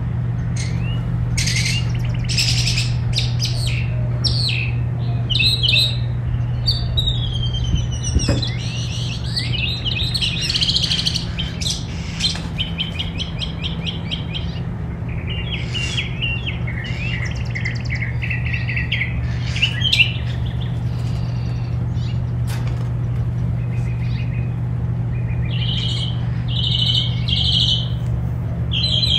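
Several small songbirds chirping and singing, with short calls, trills and rapid chattering notes overlapping throughout. A steady low hum runs underneath.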